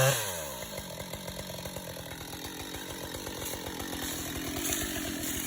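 Two-stroke chainsaw coming off full throttle: the engine's pitch drops quickly as the trigger is released, then it idles with an even, quick pulsing.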